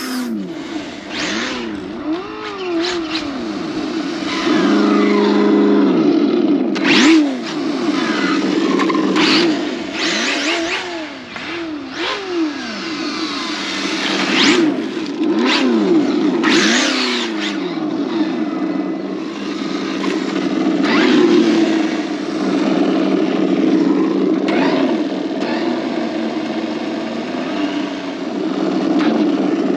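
Kyosho Inferno GT3 Mercedes-AMG GT RC car running on 4S power. Its motor pitch rises and falls again and again as it accelerates and slows, with short whooshing bursts about midway and a steadier pitch in the last third.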